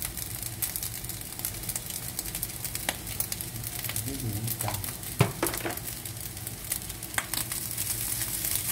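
Fried rice with egg and pork sausage sizzling in a hot pan while being stirred with a wooden spatula, which scrapes and clicks against the pan. One sharp knock of the spatula about five seconds in.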